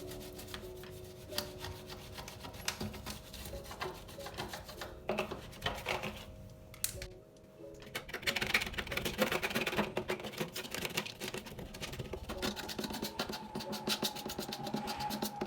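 Scrubbing and rubbing on a surface, in quick scratchy strokes, loudest about halfway through, over soft background music.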